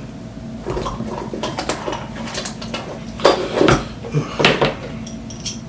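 Metal wrench clinking and scraping against roller skate hardware as it is fitted and worked, with a few sharper knocks about three to four and a half seconds in.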